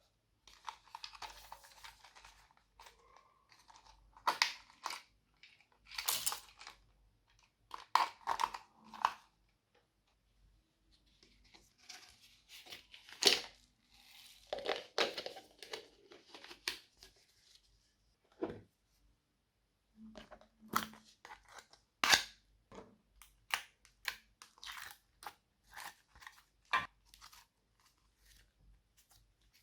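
Slime being squished, pressed and mixed by hand, making irregular sticky pops, clicks and crackles, some of them sharp, with brief pauses between handfuls.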